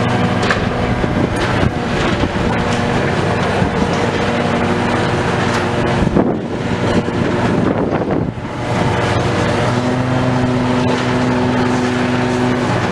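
Heavy demolition machinery: an engine running steadily under load, with scattered knocks and crunches of breaking material. The engine note shifts briefly about ten seconds in.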